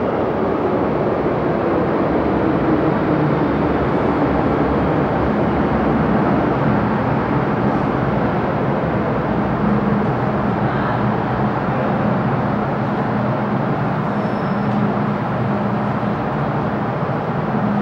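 MTR Q-train running, a steady loud rumble of wheels and traction equipment, with a whine that falls in pitch over the first few seconds.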